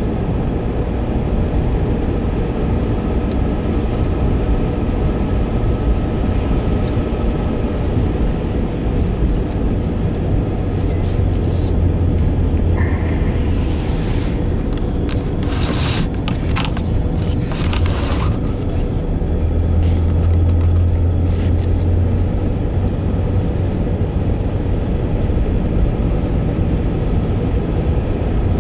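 Steady low rumble of a car being driven, with engine and road noise. The low hum swells twice, and there is a brief hissing patch in the middle.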